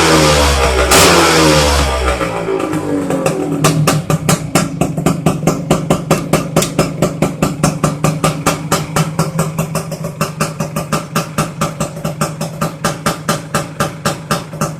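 Kawasaki KH125's single-cylinder two-stroke engine through a new aftermarket exhaust pipe: revved for the first couple of seconds, the revs falling away, then idling with a steady, rapid popping beat from about four seconds in.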